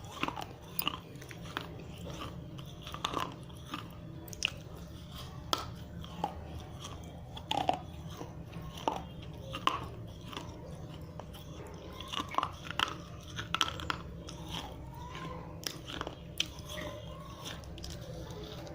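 Pieces of dry fired red clay diya being bitten and crunched between the teeth, sharp irregular crunches about every half second to second, over a steady low hum.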